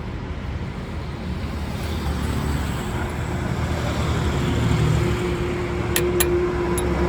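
Steady low vehicle engine rumble that grows slightly louder, with a steady hum joining in after about four seconds and three sharp clicks near the end.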